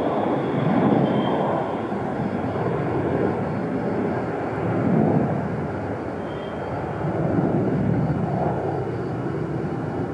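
Airbus A321neo jet airliner's CFM LEAP-1A turbofan engines on approach to landing: a steady jet rumble that swells and eases slightly, with a faint high whine.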